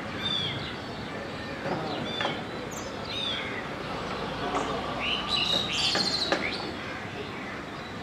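Birdsong: a perched bird giving repeated short calls that sound like a cat's mew, among other birds chirping. A denser run of quick, higher chirps comes about five to six seconds in.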